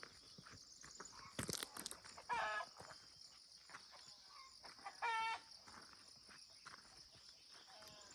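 Two short calls from a chicken in the village, about two seconds and five seconds in, over a steady high-pitched hum and faint ticking.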